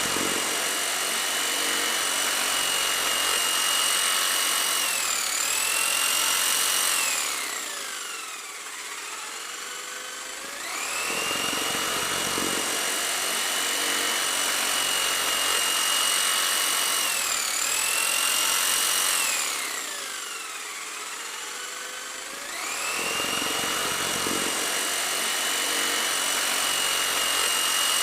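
Small electric motor of a DIY model tractor running with a high-pitched whine, which twice winds down to a low, quieter hum and then speeds back up to full pitch.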